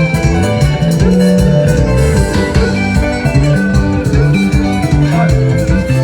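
Band music: guitar lines over a moving bass line, with drums keeping a steady beat.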